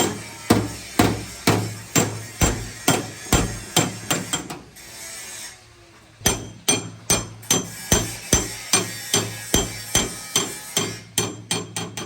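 Hammer blows on car-door sheet metal, about two a second, stopping for about a second and a half a little before the middle, then resuming and coming faster near the end.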